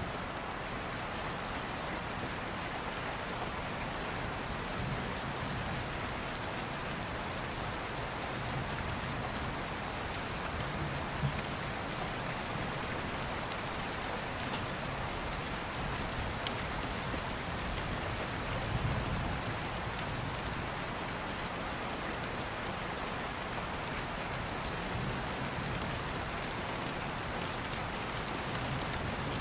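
Steady rain falling, with a few sharp crackles from a wood fire and an occasional low rumble of distant thunder.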